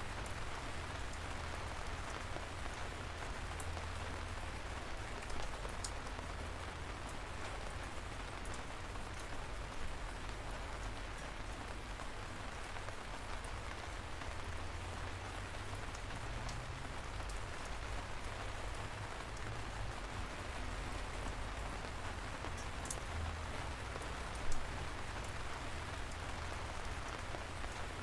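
Steady light rain falling, an even hiss with scattered sharp drop ticks and a few louder single drop hits.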